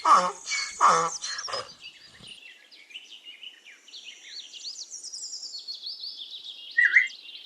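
A donkey braying in a few loud, rhythmic calls over about the first two seconds, then small birds chirping and twittering in the background.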